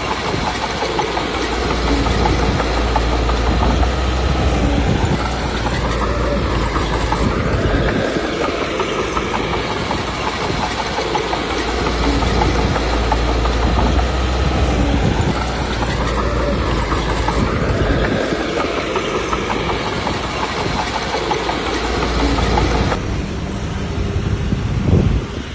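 Komatsu D21P bulldozer working, its diesel engine loading up and easing off in repeated pushes every five to six seconds, with clattering underneath. Near the end the sound changes abruptly.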